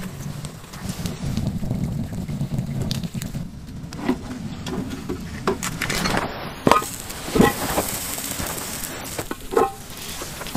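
Egg and sausage sizzling in a pan, crackling, with a handful of sharp pops in the second half, the loudest about two-thirds of the way through.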